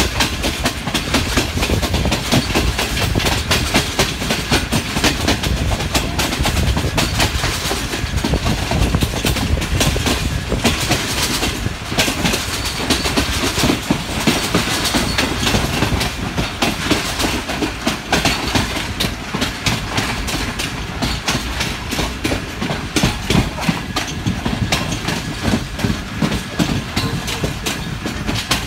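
Karakoram Express passenger coaches running along the line, heard from an open doorway: a steady rumble of wheels on rail, with rapid clickety-clack of the wheels over rail joints.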